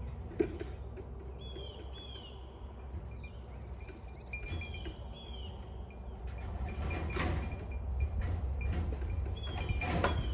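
Intermittent metallic clinks and pairs of short chirping calls over a low steady rumble.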